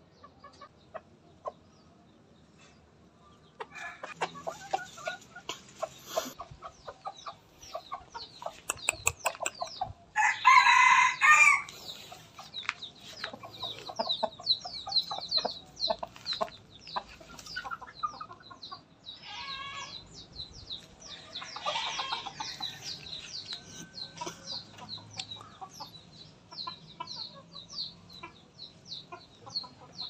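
Birds calling: after about three and a half seconds of near silence, a rapid run of short, repeated clucking calls, broken by a louder call lasting about a second around ten and a half seconds in and another louder burst around twenty-two seconds.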